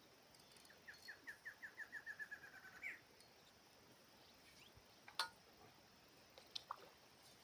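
A bird singing one song: a series of short notes that speed up over about two seconds and end on a quick rising note. A sharp click follows about five seconds in, then two faint ticks.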